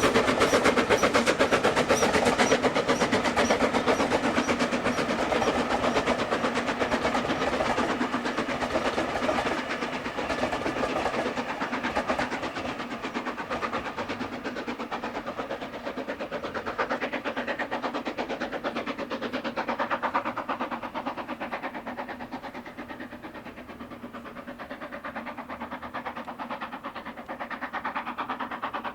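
A train running past on the rails with a rapid, rhythmic rattle, loudest at first and dying away over about twenty seconds.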